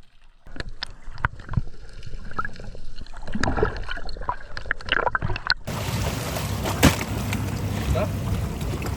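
Water sloshing and gurgling with scattered knocks and clicks. About six seconds in it switches suddenly to a steady rushing noise with a low hum.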